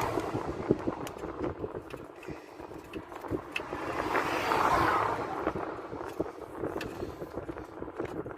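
A passing vehicle's rush swells and fades, loudest about four and a half seconds in, with small scattered clicks and taps throughout.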